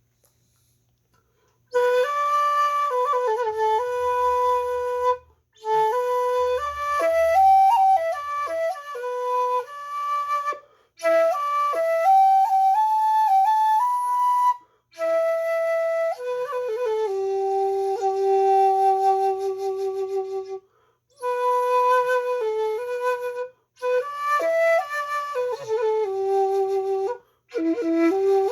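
A 1.6-shaku shakuhachi, an end-blown bamboo flute, playing a slow solo melody. It comes in in phrases of a few seconds each, with short breath pauses between them, starting about two seconds in.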